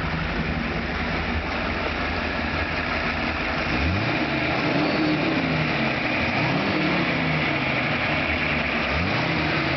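1929 Stutz Model M's straight-eight engine idling steadily, then revved and let fall back about three times.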